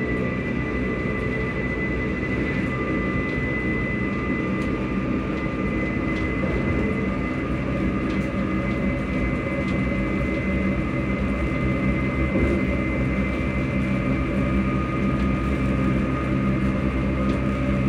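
Electric multiple-unit train running at a steady speed, heard from inside the carriage: a low rumble of running with the traction motors and VVVF inverter humming, giving a steady high whine that holds one pitch.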